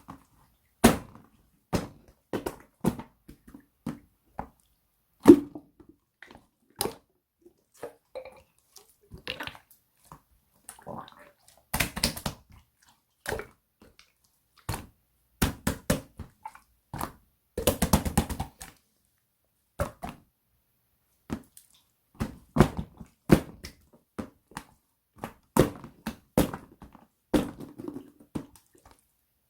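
Irregular sharp clicks and taps of small objects being handled and set down, with short quick clusters about 12 and 18 seconds in.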